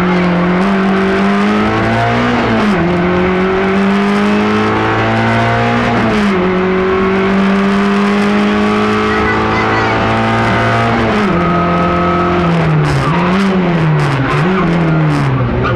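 Fiat Cinquecento Sporting's four-cylinder engine heard from inside the cabin, driven hard. The revs climb and drop sharply at upshifts about two and a half seconds and six seconds in, hold high, then fall away about eleven seconds in and rise and fall several times near the end as the throttle is lifted and reapplied.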